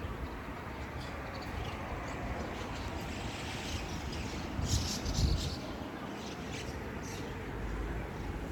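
A flock of birds chirping in a tree, short high calls clustering about halfway through, over a steady background rush. A low thump about five seconds in is the loudest moment.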